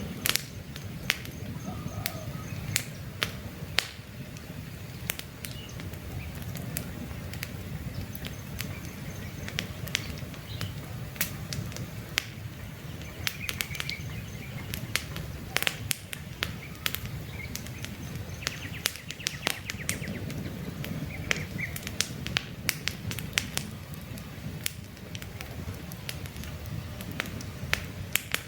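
Campfire burning, with frequent sharp, irregular crackles and pops over a low steady rumble of flames. Faint bird chirps come in now and then.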